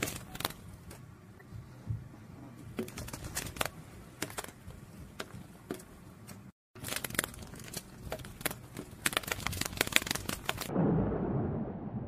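Sound effect of butterfly wings fluttering: light, irregular crackling clicks over a faint hiss, with a short break about six and a half seconds in. Near the end the clicks give way to a low rumble of thunder and rain.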